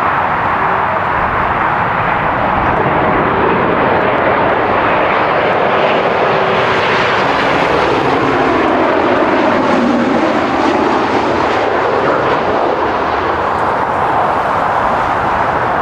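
Embraer Lineage 1000 business jet on landing approach, its two turbofan engines running as it flies past. The steady jet noise holds throughout, with a tone that dips in pitch about halfway through as it passes closest.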